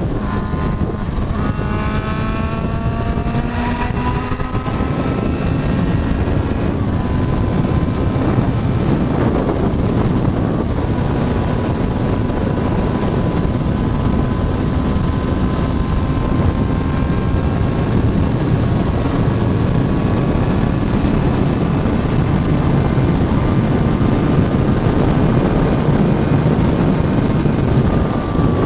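Motorcycle engine heard on the move through heavy wind buffeting, rising in pitch under acceleration in the first few seconds, then holding a steady pitch at cruising speed.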